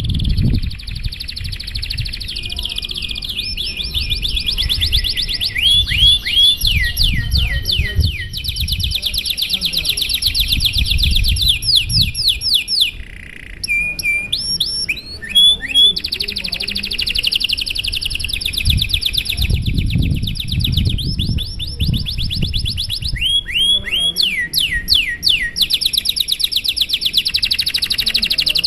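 Domestic canary singing a long, continuous song: rapid trills of repeated notes that switch to a new phrase type every few seconds, with quick falling sweeps between phrases and a brief pause about halfway through. A low rumble runs underneath.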